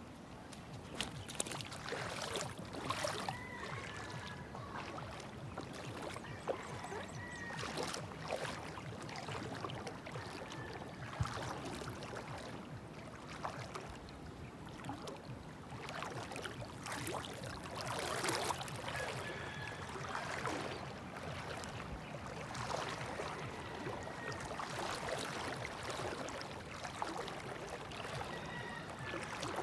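Water splashing and trickling in irregular surges.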